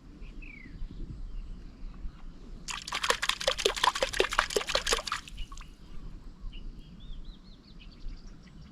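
Water splashing in a quick run of strokes for about two and a half seconds, beginning a little under three seconds in. Faint high chirps come before and after it.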